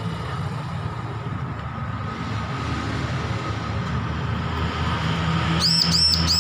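A steady low rumble like a running engine throughout. About three-quarters of the way in, a bar-winged prinia (ciblek) gives three quick, high, arching chirps in a row.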